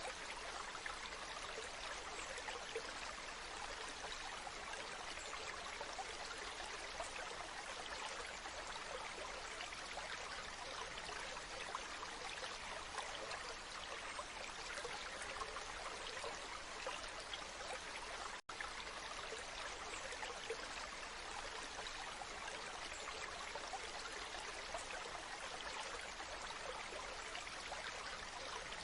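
Waterfall rushing steadily, a continuous even hiss of falling water, broken by a split-second dropout about eighteen seconds in.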